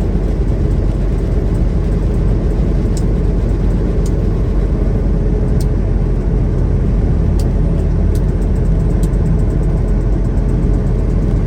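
Steady engine and road rumble inside a semi-truck cab while driving, with a few faint short clicks.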